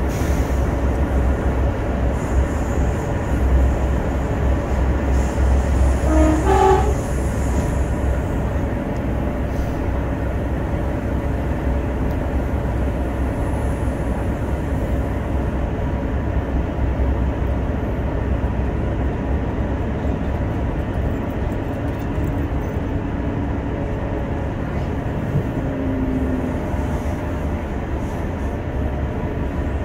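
Passenger train running at speed, heard from inside the carriage: a steady rumble and track noise. A short rising tone comes about six seconds in, and the running is a little louder for the first few seconds.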